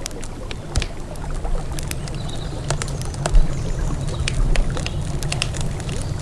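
Wood campfire crackling, with irregular sharp pops and snaps, over a steady low rush of river water.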